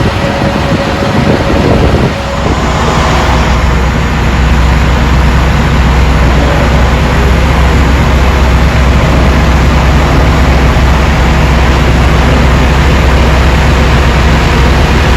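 Aircraft jet engines running at high power: a loud, steady noise with a deep rumble that swells over the first few seconds and then holds.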